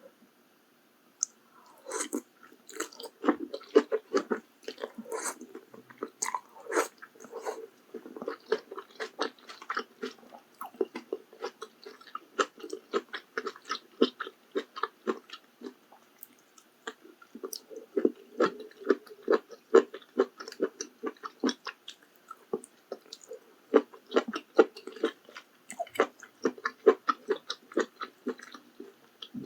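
Close-miked chewing of malatang (mala spicy hotpot): a dense, irregular run of wet crunches and clicks, starting about a second in, with brief lulls between mouthfuls.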